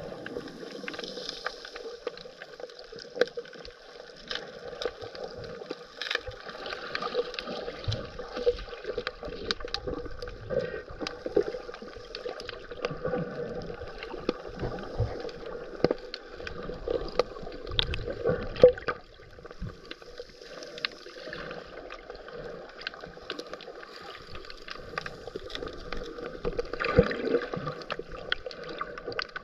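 Underwater sound heard through a GoPro's waterproof housing: a muffled scuba dive with scattered sharp clicks and crackles, and a swell of exhaled regulator bubbles every several seconds.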